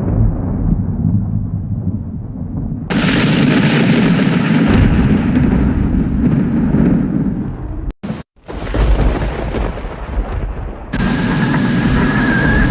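Thunderstorm: loud rolling thunder over heavy rain. The sound turns abruptly brighter about 3 s in and again near 11 s, with a brief cut-out near the 8-second mark.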